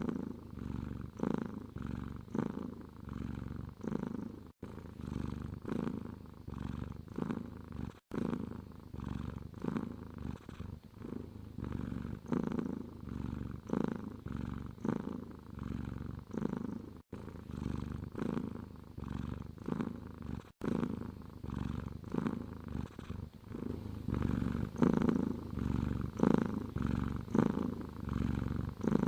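Domestic cat purring, a low rumble that swells and fades with each breath in and out, broken by a few momentary silent gaps.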